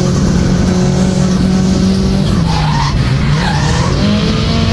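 Nissan Silvia S14 drift car's turbocharged SR20DET engine held at high revs while the tyres squeal through a slide; the revs dip and climb back about halfway through as the squealing wavers.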